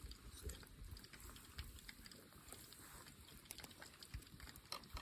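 Near silence: faint outdoor ambience with a few small scattered clicks.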